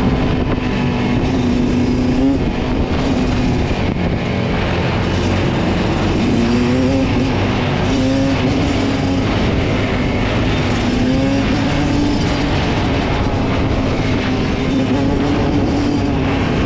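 Dirt bike engine running loudly, its pitch rising and falling as the throttle is blipped several times.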